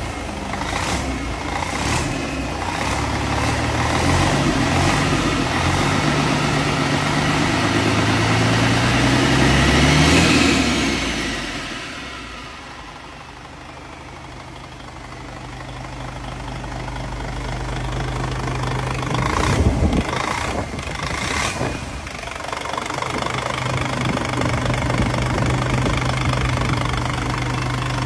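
Hino 1HD diesel engine running just after starting: its revs climb for about ten seconds, then fall back to a steady idle. A few sharp knocks come about two-thirds of the way through, and then it idles on.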